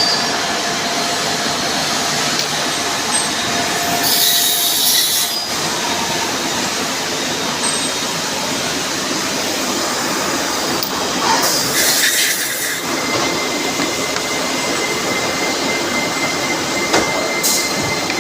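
CNC machine running a boring operation on a metal part: steady machining noise with faint thin squealing tones. Two short bursts of loud hiss come about four seconds in and again about halfway through.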